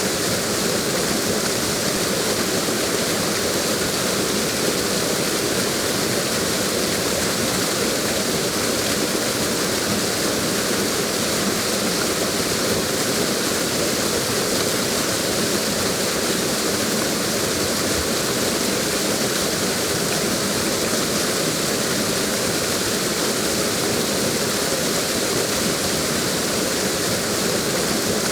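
Waterfall pouring steadily: a constant, even rush of falling water that does not change.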